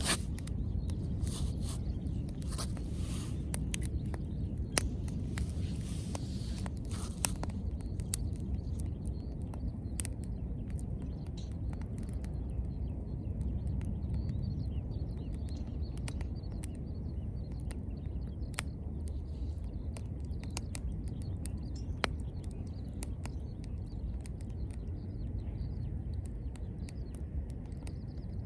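Wood fire crackling, with scattered sharp pops over a steady low rumble; the crackling is busier for the first seven seconds or so.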